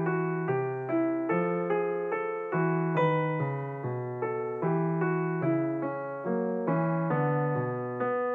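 Background piano music: a slow melody of struck notes over a low bass line, about two notes a second, each note fading after it is struck.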